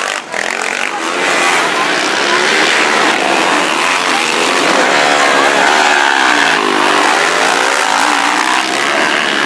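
Several motocross motorcycle engines running hard on the track, their pitch rising and falling as the riders rev through the gears, most plainly a few seconds in.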